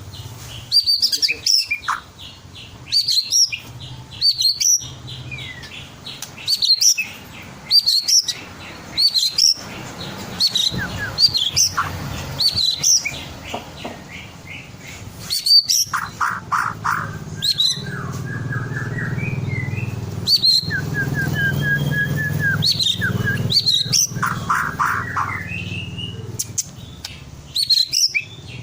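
White-rumped shama singing in full voice: loud whistled phrases repeated about once a second. Runs of rapid, lower trilled notes come in the second half. A low steady hum runs underneath and swells around the middle.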